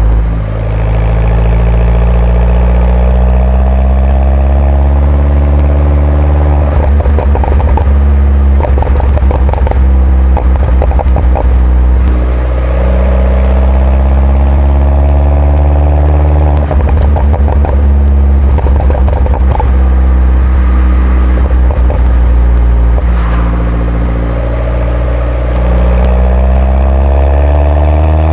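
A 2011 Mini John Cooper Works R57's turbocharged 1.6-litre four-cylinder engine, with a stock exhaust, accelerating in several pulls with its pitch rising each time. Between pulls there are stretches of rapid crackling clatter over a steadier engine note.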